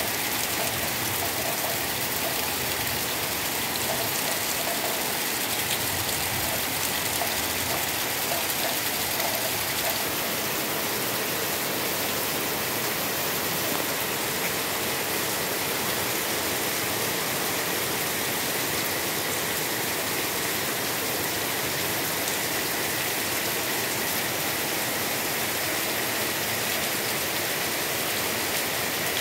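Heavy rain pouring down steadily, an even rushing noise with no letup.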